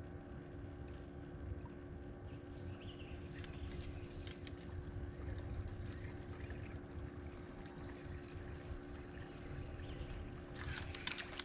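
A small electric motor on a fishing boat humming steadily over a low rumble of water and wind. About a second before the end, a burst of water splashing and sloshing begins.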